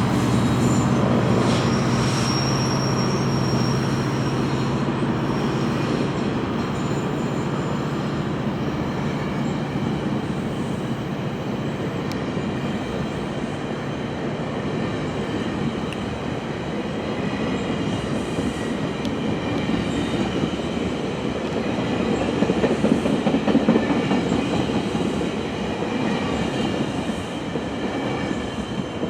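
GO Transit commuter train rolling along the station track. A diesel locomotive's steady low hum fades over the first ten seconds, leaving the rumble of the cars on the rails with thin high wheel squeal, loudest about three-quarters of the way through.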